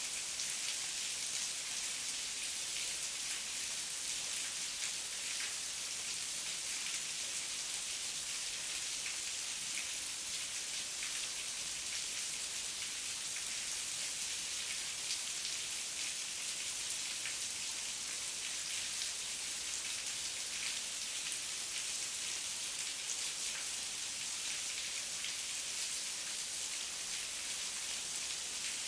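Heavy rain falling steadily, a dense hiss of countless drops pattering on surfaces.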